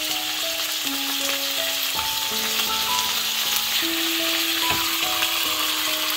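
Diced raw chicken breast sizzling as it drops into hot vegetable oil in a frying pan, with a couple of soft knocks as pieces land. A gentle melody of slow held notes plays underneath.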